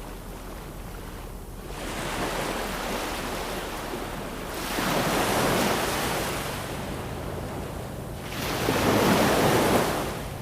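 Ocean surf: waves wash in three times, each surge rising and falling away over a couple of seconds, with the last one the loudest.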